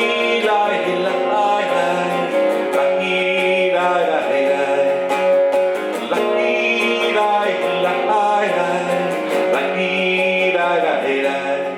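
Acoustic guitar strumming under a singing voice carrying a wordless 'la la' melody between verses of the song.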